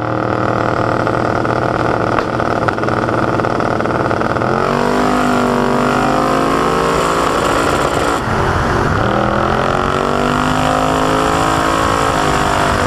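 Twin-turbo Pontiac Trans Am drag car's engine at full throttle, heard loud from on board. The engine holds a steady note for the first four or so seconds, then its pitch climbs and wavers. About eight seconds in the pitch dips briefly and climbs again.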